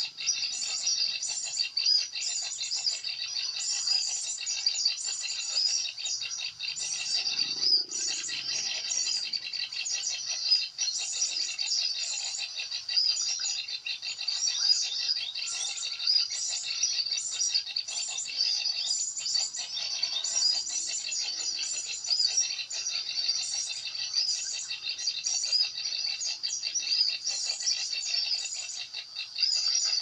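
Small songbirds chirping continuously in high, rapid, repeated calls, the phrases coming about twice a second.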